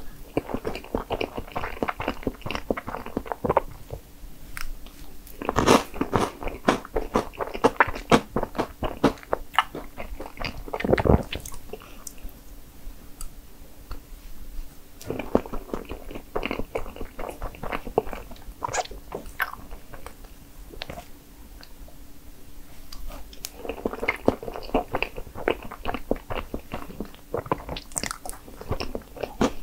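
A person chewing mouthfuls of strawberry crepe cake, in four bouts of rapid, fine chewing clicks with quieter pauses between them.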